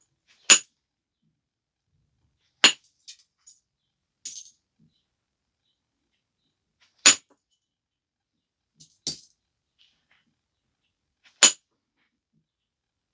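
Flakes being knapped off a stone biface: four sharp, clicking strikes spaced a few seconds apart, with fainter clinks and small rattles of flakes in between.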